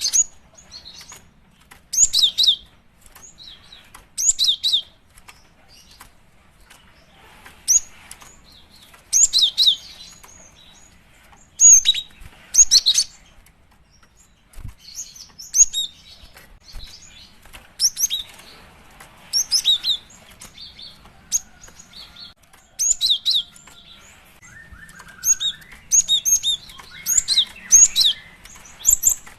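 Female cinereous tit (gelatik batu) calling: clusters of short, sharp, high chirps repeated every second or two. It is a female's call to draw a male.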